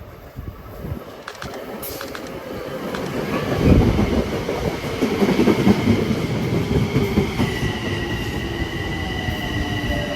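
Metro-North train running past on the rails, its rumble growing louder over the first four seconds and then staying steady. A steady high-pitched squeal from the wheels sets in about halfway through.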